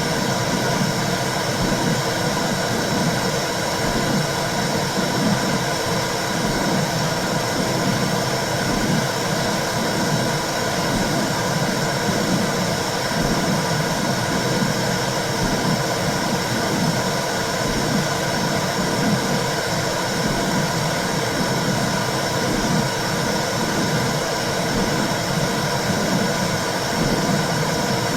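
Womb sound for soothing babies: a steady whooshing noise with a low, rhythmic pulse about once a second, like a mother's heartbeat heard from inside the womb.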